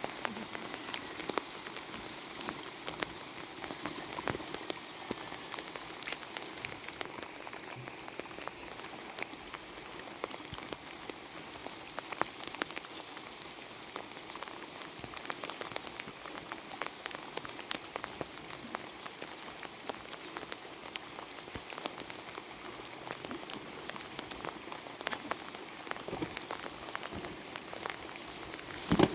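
Steady rain falling and pattering on a surface, with many separate drop hits heard through it.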